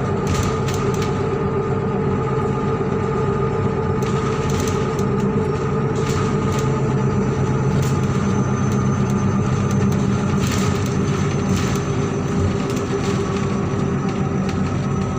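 MAZ-103 city bus's diesel engine running steadily, with scattered short clicks and rattles throughout.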